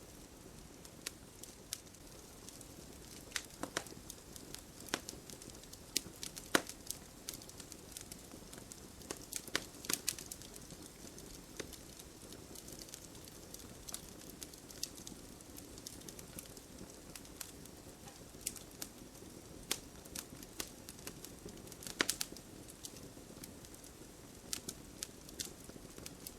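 Campfire burning, the wood crackling with irregular sharp pops over a soft steady hiss of the flames; the loudest pops come about six and a half seconds in, around ten seconds, and about twenty-two seconds in.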